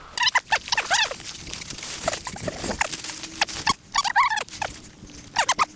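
Hunting dog whining and yelping in many short, high-pitched cries, over rustling.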